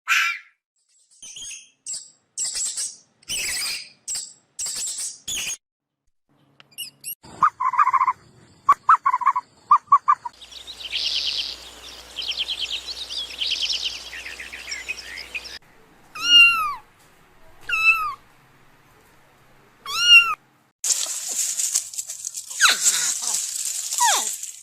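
A string of different short animal calls, one after another: quick chirps, a pulsing trill, then three short calls that fall in pitch, spaced about two seconds apart, and a hiss near the end.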